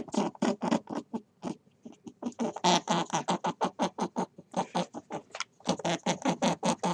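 An animal making quick, rhythmic sounds, about four to five short pulses a second, with a couple of brief pauses.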